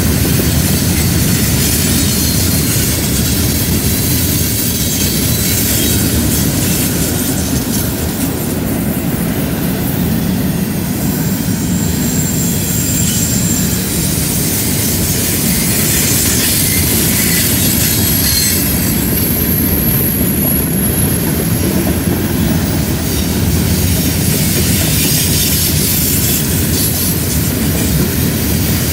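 Freight cars loaded with steel coils rolling past on a curve: a steady loud rumble and clatter of steel wheels on the rail. A high-pitched wheel squeal from the curve comes in about eleven seconds in and again around twenty seconds.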